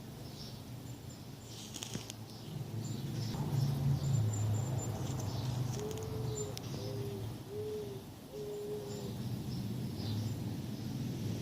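A bird hooting: a run of five short, low notes about six seconds in, over a steady low hum and faint high chirps from small birds.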